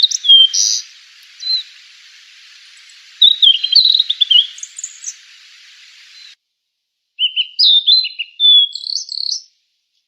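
Sulingan (tledekan) bird singing: short phrases of quick, clear whistled notes that jump and slide up and down, separated by brief pauses. A steady background hiss stops abruptly about six seconds in, where the recording is spliced.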